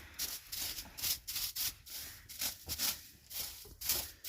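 Repeated rough scraping or rubbing strokes, about two a second and somewhat uneven.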